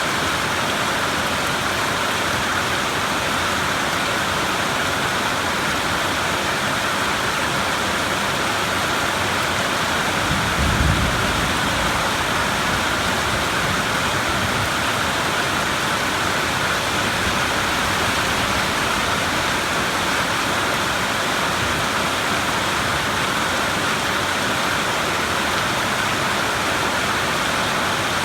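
Heavy rain falling steadily, an even hiss. About ten seconds in, a short low rumble of thunder rises briefly under it.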